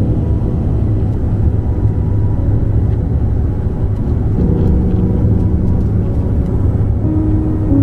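Steady low rumble of a vehicle's engine, with soft music of held chords that change every couple of seconds.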